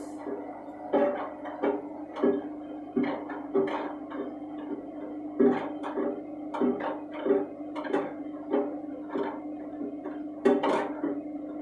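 Candy washing machine drum turning with shoes inside: the shoes knock and clatter against the drum about once or twice a second, irregularly, over a steady motor hum.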